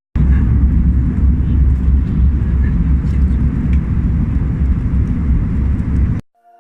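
Airbus A321 cabin noise in flight: a steady, loud low roar of engines and airflow, which cuts off abruptly near the end.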